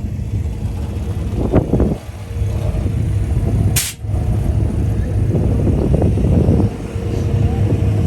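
A vehicle engine running steadily with a low rumble, and a single short hiss about four seconds in.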